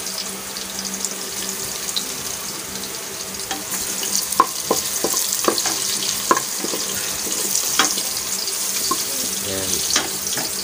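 Sliced garlic and ginger sizzling in hot oil in an aluminium pressure cooker, stirred with a wooden spoon. A steady hiss, with sharp taps and clicks of the spoon against the pot from about a third of the way in.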